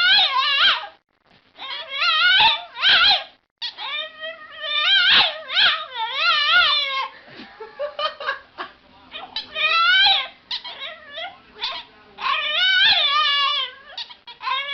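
An animal crying out over and over in long, high, wavering calls that wobble in pitch, with only short pauses between them.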